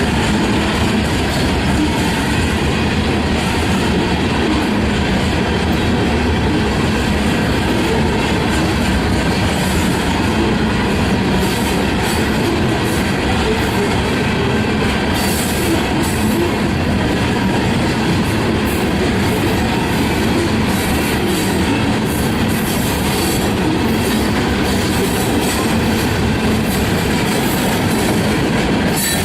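Freight train cars rolling past, a steady loud rumble of wheels on rail with many quick clicks and rattles.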